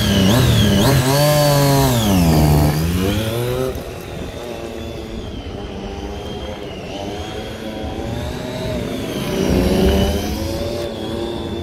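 Triumph Street Triple 675's three-cylinder engine revving close by as the motorcycle pulls away, the pitch dipping and climbing again over the first three seconds. The engine then drops quieter as the bike rides off, its revs rising and falling through the cone course with a swell near the end.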